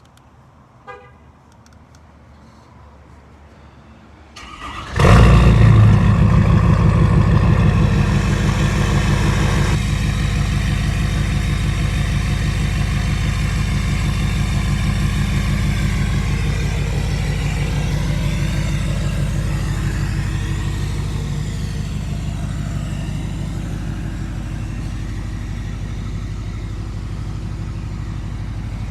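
2017 Ford F-250 with a 5-inch straight-pipe exhaust starting about five seconds in, firing with a loud burst and then idling with a deep, steady drone that slowly eases off. A short beep about a second in, before the start.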